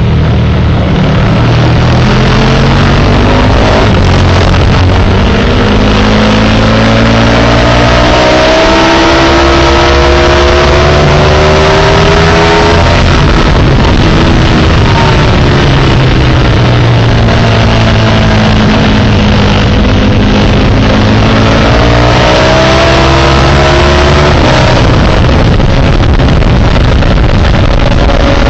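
Sport motorcycle engine recorded onboard at speed on a race track, very loud throughout; its pitch climbs twice in long rising sweeps as the bike accelerates and falls away in between.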